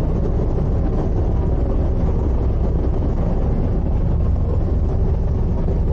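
Steady low rumble of the drift-ice sightseeing icebreaker Aurora's engines, heard on board.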